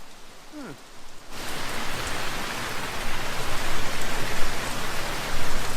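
Heavy rain pouring down as a steady hiss, which starts abruptly about a second in after a quieter stretch.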